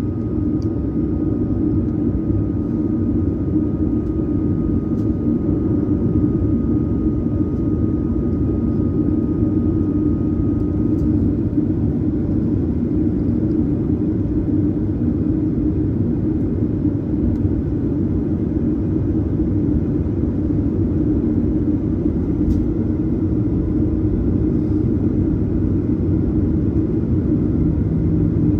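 Steady engine and airframe rumble of a Boeing 737-900ER, heard inside the cabin from a rear economy seat, with no change in power. A thin high tone runs alongside and stops about a third of the way in, and there are a few faint clicks.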